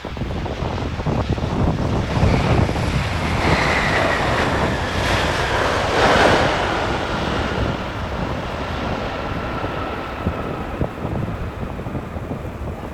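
Jet airliner passing close by, its engine noise swelling to a peak about six seconds in, with a whine that slowly falls in pitch as it goes by. Wind buffets the microphone throughout.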